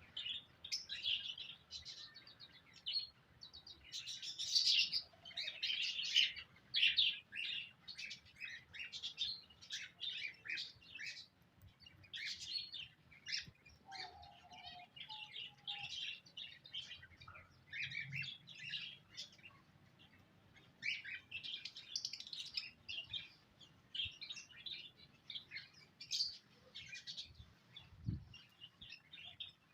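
Small pet birds chirping: a dense, continuous stream of short, high chirps from several birds.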